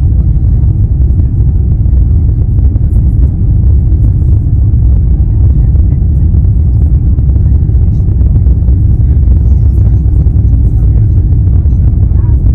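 Steady low rumble of an Airbus A350-900 heard from inside the cabin: its Rolls-Royce Trent XWB engines and the airflow around the fuselage.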